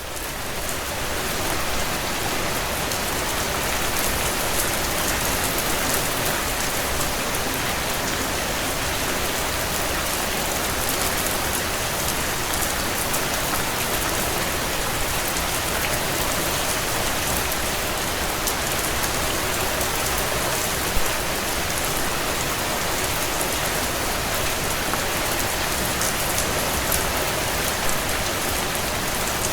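Heavy rain falling on a tin roof: a dense, steady patter of drops. It swells in over the first second or two, then holds even.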